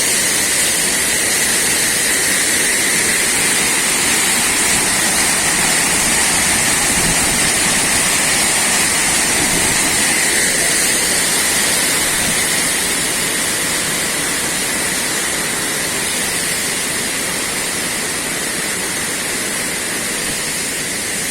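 Waterfall cascading over rocks: a steady, loud rush of falling water.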